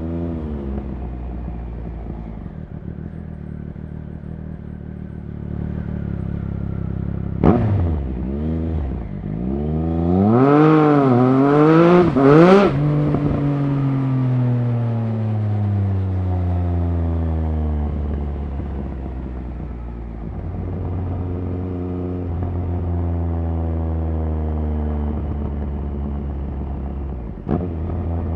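Triumph Speed Triple RS 1050's three-cylinder engine under way on the road. The revs rise and fall quickly several times around the middle, then drop slowly as it decelerates, and then hold fairly steady. A sharp crack comes once about a quarter of the way in and again near the end.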